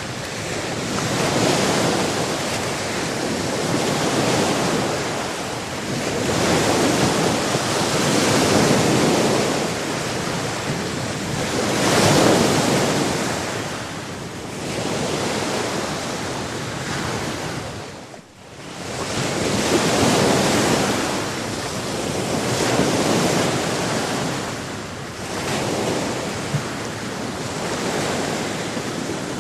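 Sea surf: waves washing in and breaking in swells every two to three seconds over a steady rush of water, with a brief sudden drop about eighteen seconds in.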